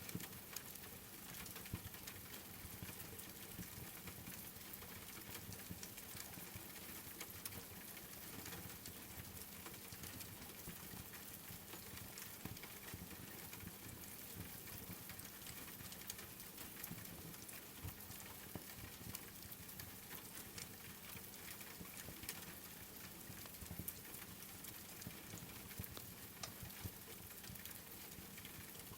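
Steady rain pattering, mixed with the crackle of a fireplace wood fire as scattered small pops, over a faint low steady hum.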